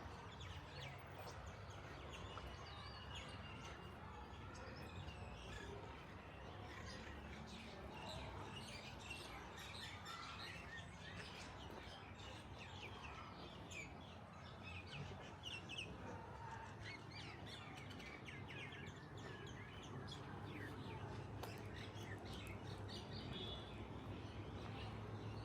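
Small birds chirping, many quick short calls overlapping, over a faint steady low hum of city background noise.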